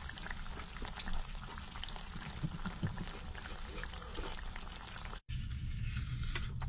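Pot of chicken stew simmering, a steady bubbling and crackling with many small pops. The sound cuts out for an instant about five seconds in, then resumes with a stronger low hum.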